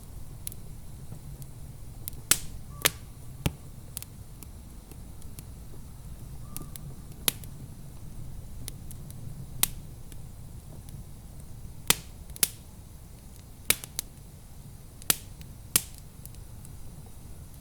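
Wood fire crackling in a fireplace: about a dozen sharp, irregular pops and snaps over a steady low rumble.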